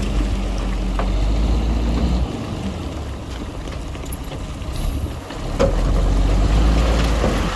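Heavy construction machine's diesel engine running under load, a low steady rumble that eases off about two seconds in and grows louder again with a knock about five and a half seconds in.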